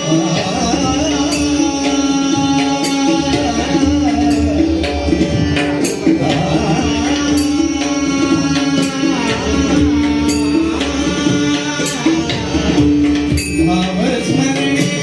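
Devotional abhang bhajan music: tabla drumming a steady rhythm with sharp cymbal strokes, under a held melody line that moves in small steps.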